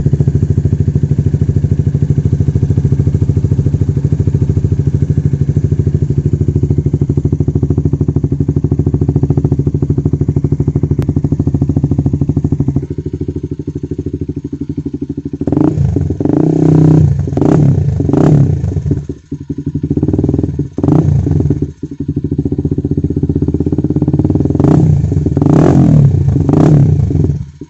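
Honda CB150R's single-cylinder engine running through a Raptor aftermarket racing muffler, idling steadily, then revved in a series of sharp throttle blips from about fifteen seconds in, ending in a longer rev near the end.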